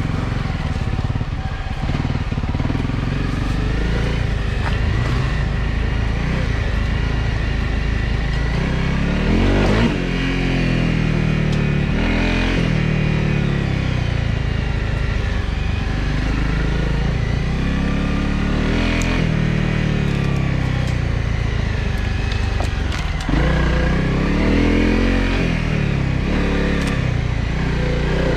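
Honda CRF250L Rally's single-cylinder engine running under way on a dirt trail, its pitch rising and falling again and again as the throttle is opened and closed.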